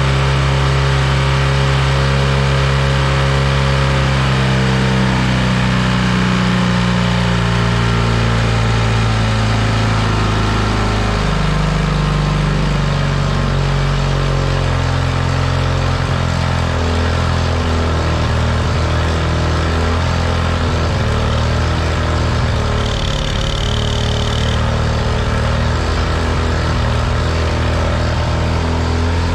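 Parsun 25 hp outboard motor running on its newly fitted carburetor. Its revs ease down over the first ten seconds or so, then it runs steadily at a lower speed.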